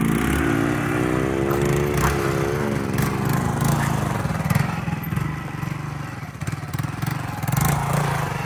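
Small 125 cc single-cylinder mini motorcycle engine running, its pitch rising and wavering over the first couple of seconds before it settles into a steady low-rev run.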